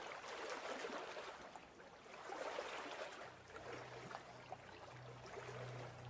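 Faint rushing noise, like running water, swelling and easing in waves. A low steady drone comes in a little after three seconds, as the next piece of music begins.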